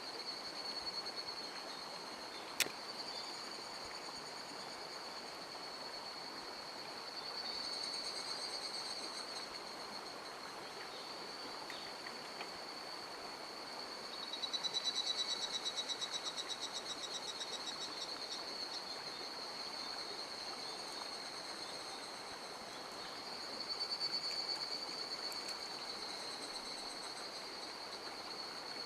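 Insects calling in a steady, high-pitched buzz that swells three times into rapid pulsing trills, about 7, 14 and 23 seconds in, over the even rush of a mountain stream. A single sharp click comes a couple of seconds in.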